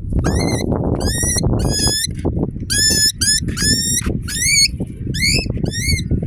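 Cockatiel calling over and over, about ten short, high-pitched squawks that each rise and then bend over, with a steady low rumble underneath.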